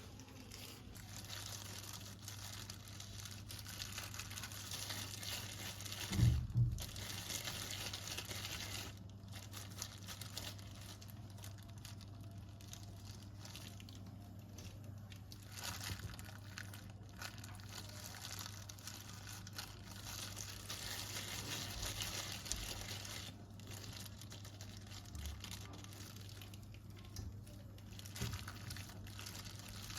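Crinkling, rustling handling noise that comes and goes in stretches of several seconds, with a double knock about six seconds in, over a steady low hum.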